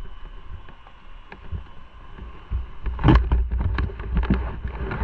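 Motorcycle riding, a low rumble with wind buffeting the microphone; about three seconds in it gets louder, with a rapid run of crackling gusts.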